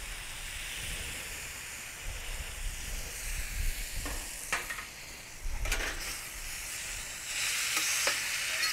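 Cubed chicken and onions sizzling on a hot steel griddle pan over charcoal as soy sauce is poured onto them. A metal spatula clicks and scrapes against the pan a few times in the second half, and the sizzle grows louder near the end as the food is stirred.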